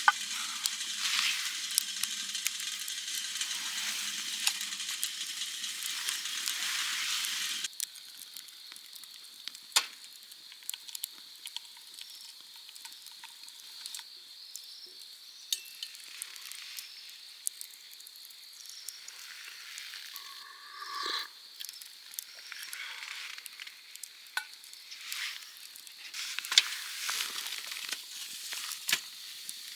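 Food sizzling in a pan over a campfire. About eight seconds in it cuts abruptly to a quieter stretch of scattered small crackles and clicks.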